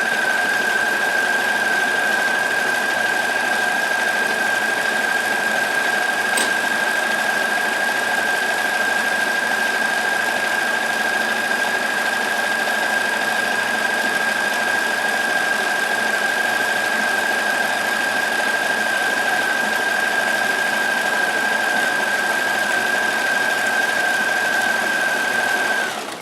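Kenmore 158.1914 sewing machine running at a steady speed, stitching a multi-point zigzag over a frayed hem, its motor giving an unbroken whine. It stops at the very end.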